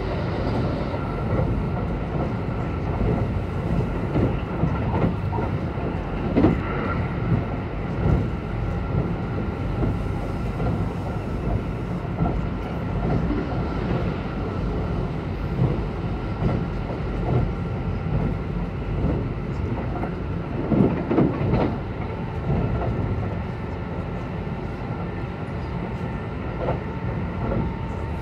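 Kintetsu 22000 series electric train running at speed, heard from inside the passenger car: a steady low rumble of wheels on rail, with sharp clacks over rail joints every second or two and faint steady motor tones. It runs a little quieter near the end.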